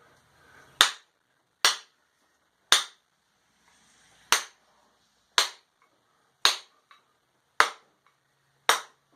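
Sharp knocks as a forged cross peen hammer's steel head is driven down onto its hickory handle, seating the head before it is wedged. Eight blows at a steady pace of about one a second.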